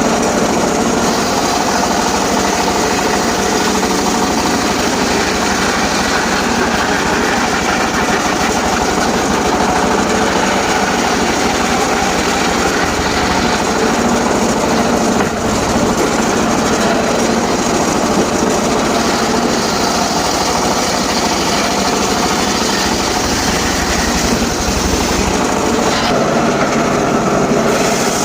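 Engine-driven portable circular sawmill running steadily and loudly, the engine and spinning blade holding an even note throughout.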